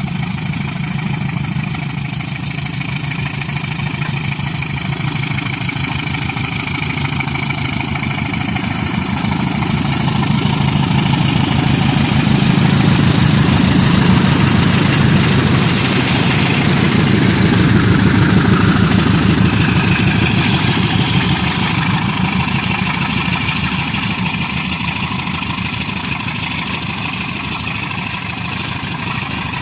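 Pair of GE U13B diesel-electric locomotives hauling loaded ore wagons, their engines running steadily. The sound swells to its loudest about halfway through as they pass close by, then fades as they move away.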